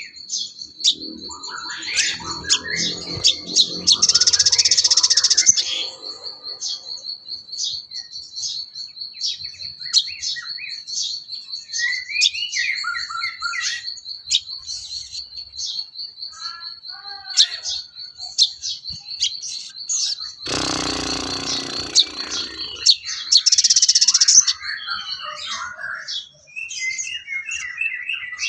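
Sogon bird song: a long, steady, high rattling trill held for most of the stretch, with many short, varied chirps and whistled notes over it. Two loud, harsh, rasping calls break in, one a few seconds in and one about three-quarters of the way through.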